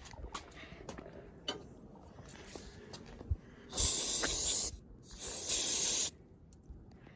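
Aerosol spray can giving two bursts of hissing spray, the first about a second long and the second shorter, used to clean oil off the engine. Small handling clicks before them.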